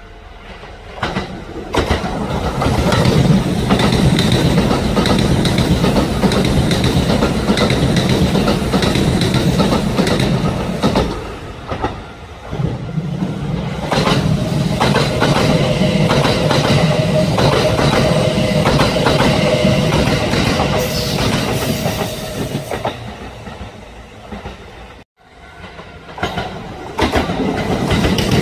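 Kintetsu electric train passing at speed, its wheels clacking over the rail joints in a dense run of clicks. A steady whine joins in for several seconds past the middle. The noise fades and cuts out abruptly near the end, then train noise rises again.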